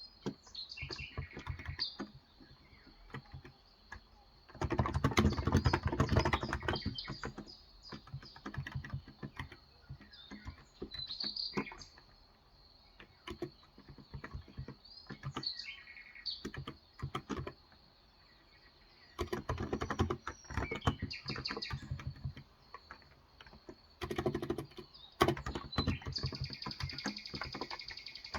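Bursts of typing on a Cox Endeavor tenkeyless electrostatic capacitive keyboard with 35 g switches, the key strokes running in several runs of a few seconds with pauses between. Birds chirp in the gaps, with a trill near the end.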